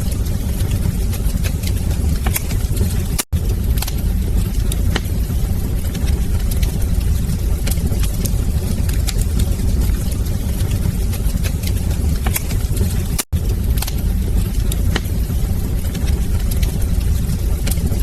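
Wood fire burning in a fireplace: a steady low roar of flames with frequent sharp crackles and pops. The sound cuts out for an instant twice, about ten seconds apart.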